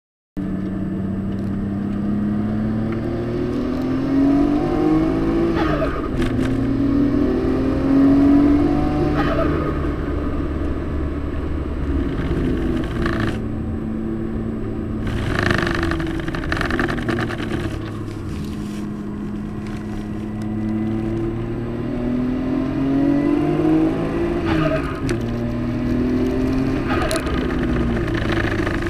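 Nissan Skyline's engine heard from inside the cabin under hard track driving. Its pitch climbs under acceleration and drops sharply at each upshift, several times over, with a few brief bursts of hiss in between.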